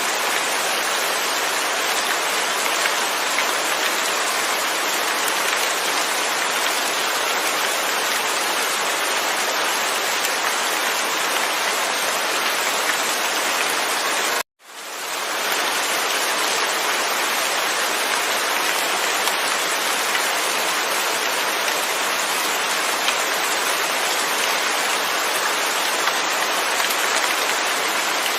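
Steady rain, no thunder: a dense, even hiss of falling rain. About halfway through it cuts out for an instant and fades back in over about a second.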